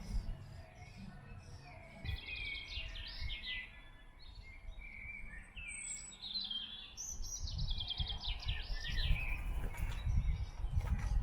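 Small songbirds chirping in quick repeated trills, one burst about two seconds in and a longer one from about six seconds, over a low rumble.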